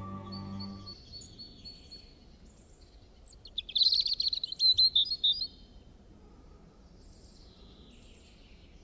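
Small birds chirping: a thin high note, then a loud run of rapid chirps about four seconds in, and fainter calls near the end.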